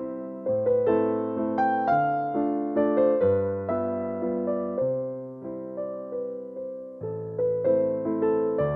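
Background music: gentle piano (or electric piano) playing a slow melody over chords, each note struck and fading.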